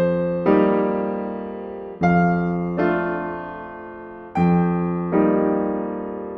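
Slow, gentle solo piano: soft chords struck about once a second, each ringing and fading before the next.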